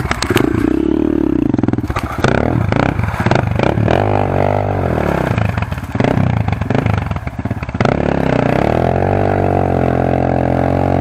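Enduro motorcycle engine revving hard and dropping back several times under load as the bike climbs a muddy bank, then held at high revs for the last few seconds. A few clattering knocks in the first few seconds.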